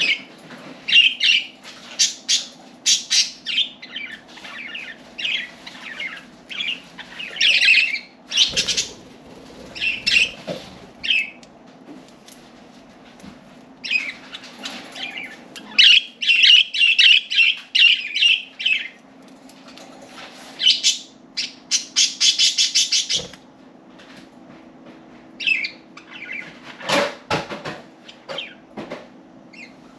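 Budgerigars chirping and warbling in short bursts, with a fast run of rapid chatter near the middle, and wings flapping as they fly about.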